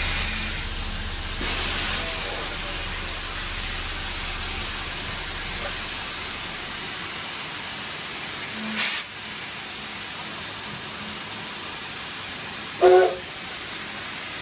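Steam hissing steadily in the cab of the Nevada Northern No. 81 steam locomotive, over a low rumble that dies away about halfway through. A short, louder burst of hiss comes a little past halfway, and a brief pitched sound near the end.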